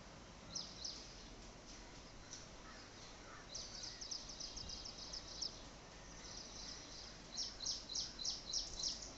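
A small bird chirping in short high series: a couple of chirps about half a second in, a quick run of chirps from about three and a half seconds, and louder, evenly spaced chirps, about three a second, near the end. Steady background hiss underneath.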